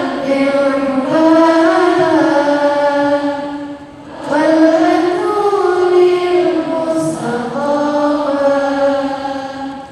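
A woman's voice chanting in long, drawn-out melodic phrases that glide in pitch, with a short break for breath about four seconds in.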